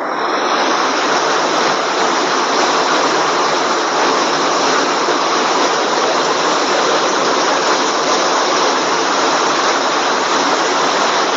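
Floodwater rushing, a loud steady noise without pitch that begins as the narration stops.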